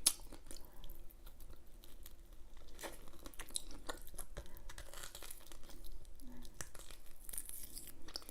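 A person chewing a mouthful of food close to the microphone, with scattered small clicks and mouth smacks.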